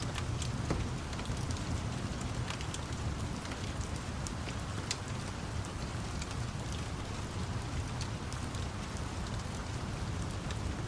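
Steady rain falling, with a low rumble underneath and scattered sharp crackles and ticks.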